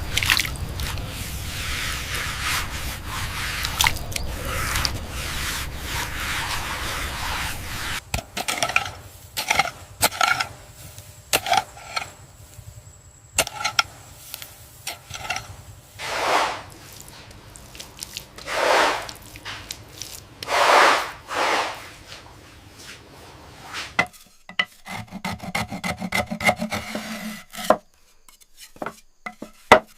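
Hand-worked scraping and rubbing strokes on a hard surface. The strokes are irregular, with a few longer drawn strokes around the middle and a run of quick clicks near the end.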